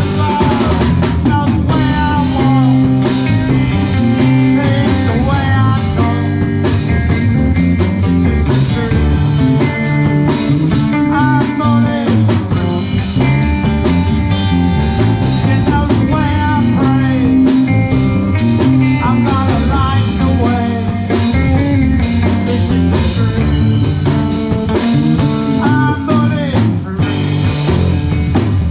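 Live rock band playing an instrumental passage: electric guitar lines with pitch bends over bass, drum kit and percussion, loud and steady throughout.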